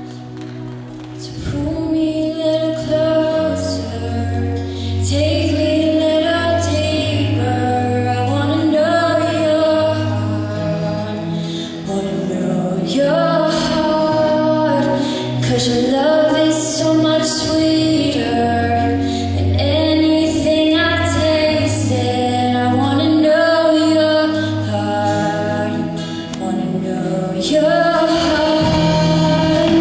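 A woman singing a sustained melody over instrumental accompaniment with a low bass line.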